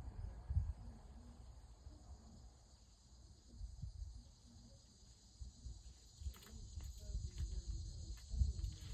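Steady high-pitched insect chorus, with uneven low rumbling and a run of small clicks near the end.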